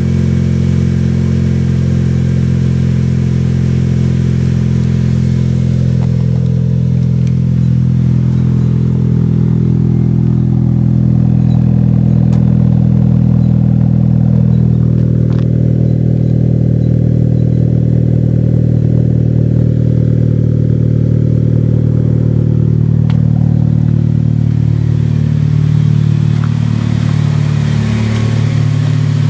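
Turbocharged 2006 Acura RSX Type-S four-cylinder running steadily at idle through a Skunk2 MegaPower R 76mm exhaust, its pitch drifting slightly around the middle.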